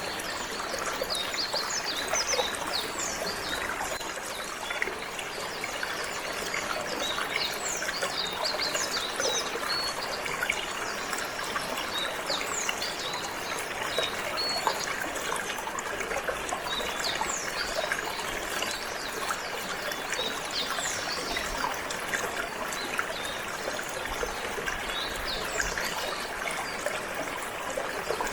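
Water trickling and flowing steadily, with canaries chirping in short, quick high notes scattered throughout.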